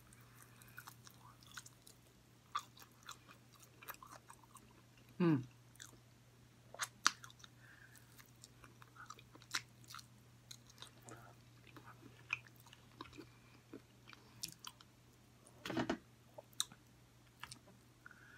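Close-up eating sounds of a person biting and chewing a sauced chicken wing: scattered small wet clicks and smacks from the mouth, with a short falling hum of the voice about five seconds in.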